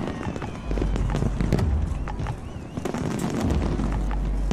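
Fireworks going off: a dense crackle of many small sharp bursts over deep, rolling booms, the low rumble swelling about a second in and again near the end.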